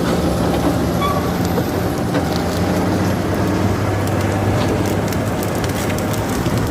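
Caterpillar crawler bulldozer's diesel engine running steadily under load, with a dense crackling and scattered clicks over it.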